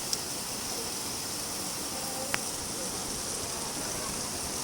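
Steady rain hiss, with two sharp taps of single drops: one just after the start and one about halfway through.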